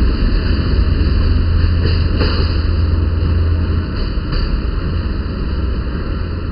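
A diesel-hauled Corail passenger train pulls out of the station, heard as a low, steady diesel rumble with rolling noise. The deep rumble drops about four seconds in, and the sound fades as the train moves away.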